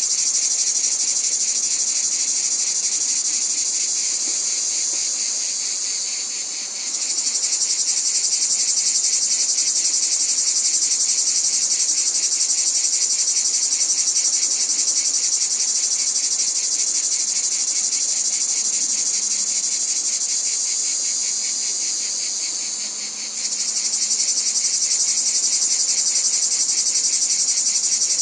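Dense insect chorus: a fast, steady, high-pitched trilling. It sags a little and then comes back suddenly twice, about a quarter of the way in and again near the end.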